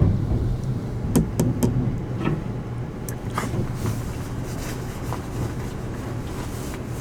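Steady low rumble of a train, with a quick run of three sharp knocks a little over a second in and a few fainter clicks after.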